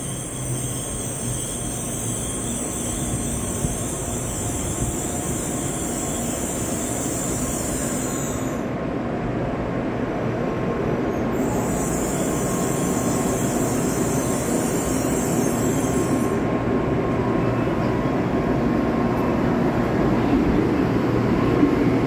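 N700A Shinkansen train pulling in alongside the platform and slowing, a steady rumble of wheels and running gear that grows louder as the cars pass. A high hiss over it cuts out about eight seconds in, comes back, and stops about sixteen seconds in.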